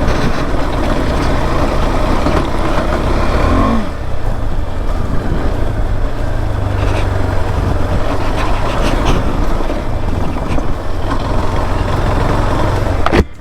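KTM 390 Adventure's single-cylinder engine running as the motorcycle is ridden, under a steady rushing noise, with a brief rise and fall in engine pitch a few seconds in. The sound cuts off suddenly just before the end.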